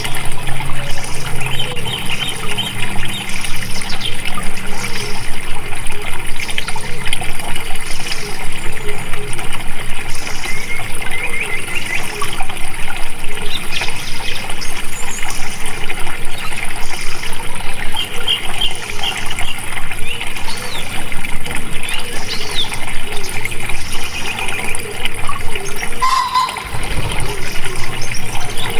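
Steady flowing, trickling water, with small birds chirping now and then over it.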